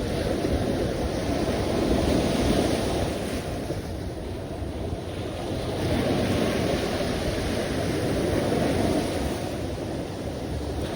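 Sea surf: waves washing in as a continuous rushing noise that swells and eases every few seconds, with low wind rumble on the microphone.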